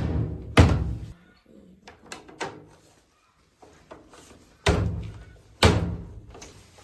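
Four heavy thuds, each with a short booming ring that dies away: two close together at the start, a gap of about four seconds with a few faint knocks, then two more.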